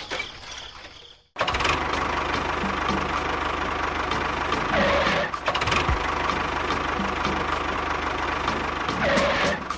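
A small motor running steadily, with a constant hum and evenly spaced clicks. It starts abruptly a little over a second in.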